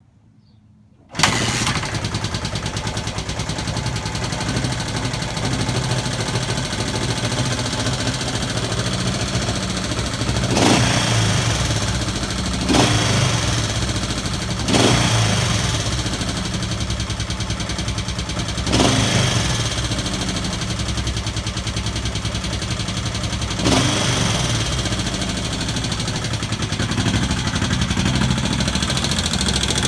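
1971 Honda CB/CL350 air-cooled parallel-twin engine starting up about a second in, then idling, with five brief throttle blips that each settle back over a second or two. The owner suspects the throttle is sticking and is asking about a ticking noise from the engine.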